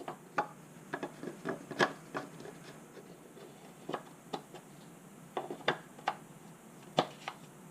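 Scattered light clicks and taps of hand work on parts under the hood, irregular and a few each second; the engine is not running.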